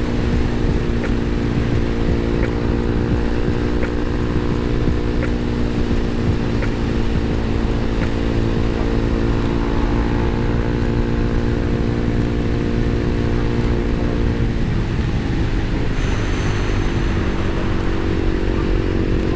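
Motorcycle engine running steadily while riding, with low wind rumble. Its note dips briefly about fifteen seconds in, then holds steady again.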